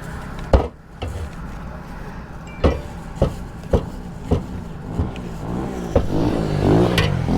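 Cleaver chopping cooked chicken into pieces: sharp, separate chops about every half second to a second, eight or so in all, over steady road traffic. Near the end an engine's pitch rises and falls as a vehicle passes.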